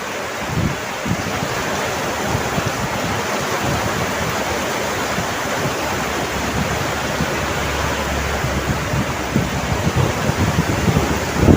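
Steady heavy rain, a dense even hiss, with low rumbling swells just after the start and again near the end.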